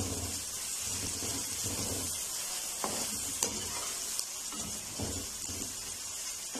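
Chopped onion, garlic and spice masala sizzling in hot oil in a steel kadai, stirred with a metal spoon that scrapes along the pan, with a few light clinks around the middle.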